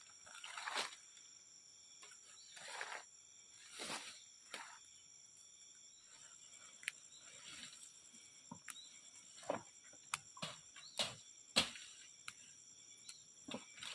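Intermittent rustling and sharp snaps of vegetation being handled or pushed through, over a steady faint high hum.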